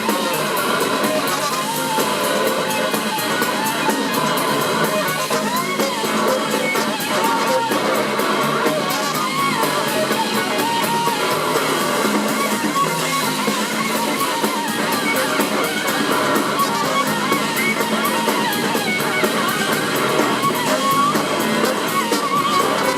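Live rock band playing an instrumental passage: a lead electric guitar with gliding, bending notes over a driving drum kit and the rest of the band.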